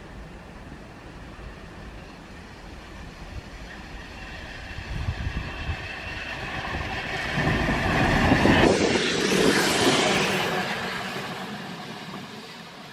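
A train passes by: its running noise swells, is loudest around eight to ten seconds in with high steady tones over the rumble, then fades away.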